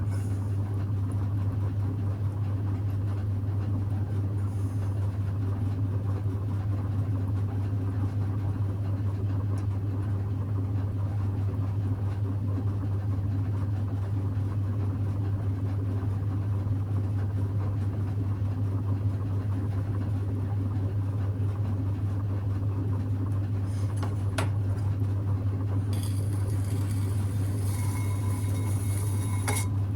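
Electric potter's wheel running with a steady low hum. A few light clicks and a brief hiss come near the end.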